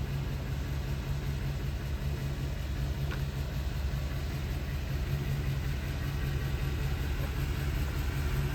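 A Ford E350 step van's engine idling with a steady low hum.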